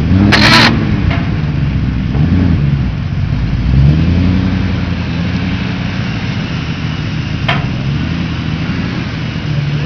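Engine of a BMW E36 drift car idling and revved in a few short blips, the pitch rising and falling with each. A sharp crack about half a second in.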